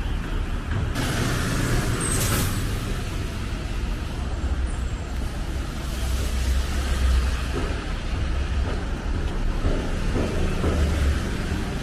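Road traffic going by: a steady low engine rumble, with a short hiss about a second in.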